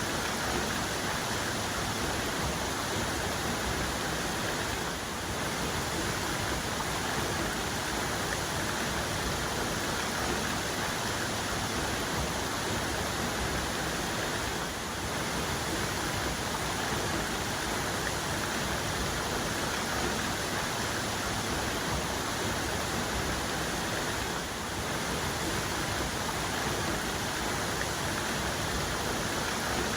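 Waterfall's main cascade: a steady, even rush of falling water, with three slight, brief dips in loudness about ten seconds apart.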